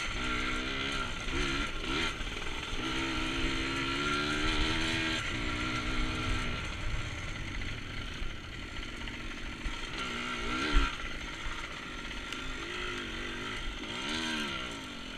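Dirt bike engine being ridden on a rough trail, its pitch rising and falling as the throttle is opened and closed, with one sharp knock about eleven seconds in.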